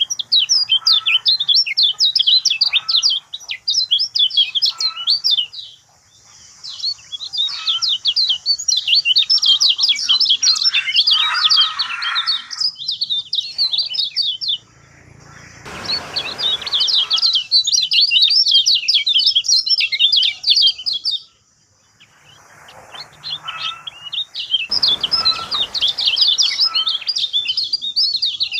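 Lemon-bellied white-eye singing long phrases of rapid, high twittering notes, four phrases with short pauses between them. A couple of brief rushes of noise sound under the song.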